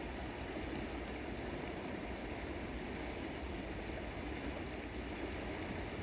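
River water flowing steadily, with a faint crackle or two from the campfire.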